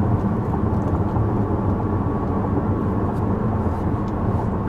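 Steady, low road and engine noise inside the cabin of a moving 2014 Chevrolet Impala with the 2.5-litre four-cylinder, the engine itself very muffled.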